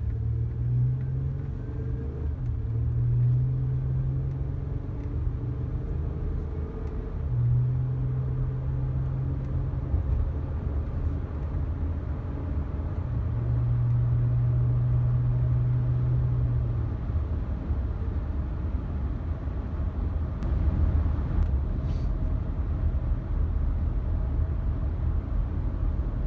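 Honda Odyssey minivan driving, heard from inside the cabin: a steady low rumble of road and tyre noise, with an engine hum that swells and fades several times.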